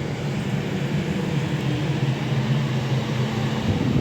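Train at the station platform: a steady low hum and rumble of a train's running machinery, swelling a little near the end.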